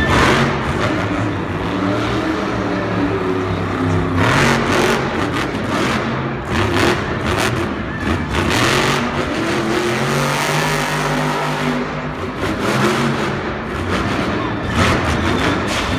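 Monster truck engines revving hard, their pitch rising and falling again and again, with bursts of heavier noise in between.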